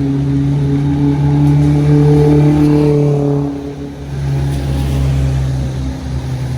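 A heavy road vehicle's engine pulling past, a low steady drone that rises slightly in pitch and loudness. About three and a half seconds in it drops in pitch and eases, then runs on.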